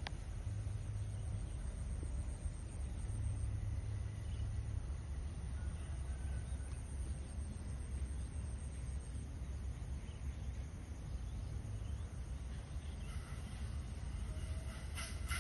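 Outdoor rice-field ambience: a steady low rumble, with a faint thin high whine for the first half and a few short chirps near the end.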